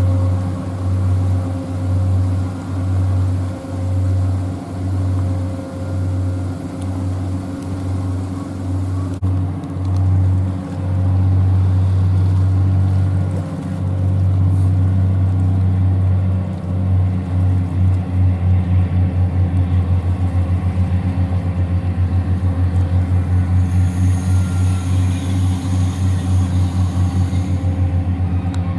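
Diesel engines of a small sea-cleaning and oil-recovery vessel running as it manoeuvres to berth: a deep drone that pulses about once a second, the beat turning quick and even about two-thirds of the way through.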